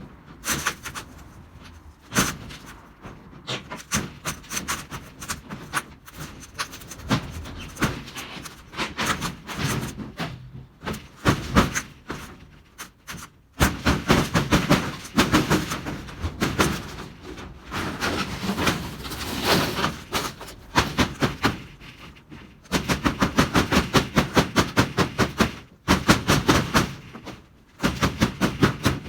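Runs of rapid metallic knocks and clatter, about four or five a second in bursts with short pauses, as a corrugated tin roof is taken apart.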